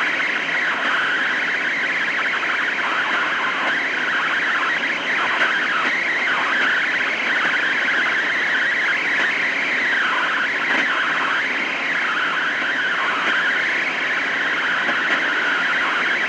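CB radio receiver hissing with steady band noise, with blurred, wavering traces of distant stations under the static and no clear voice getting through.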